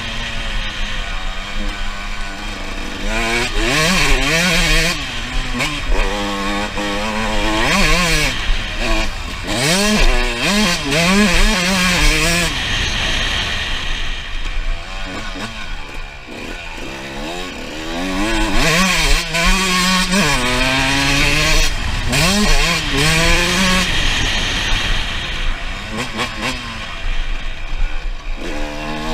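Two-stroke 125 cc engine of a Suzuki RM125 dirt bike being ridden hard, its pitch climbing and dropping over and over as the throttle is worked, easing off briefly about halfway through.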